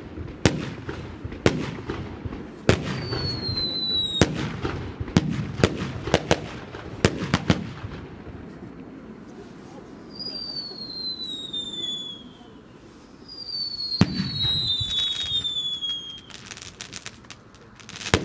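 Fireworks being fired: a string of sharp bangs in the first eight seconds, then several whistles that glide down in pitch. Another bang about fourteen seconds in is followed by crackling and more bangs near the end.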